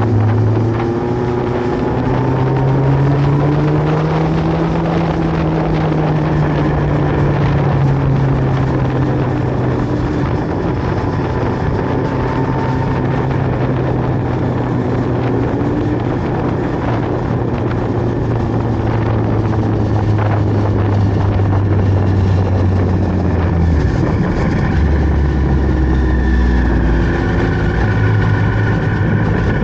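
Sport motorcycle engine under way on a ride, its note rising and falling with the throttle. About three-quarters of the way through, the engine note drops low, then climbs again near the end.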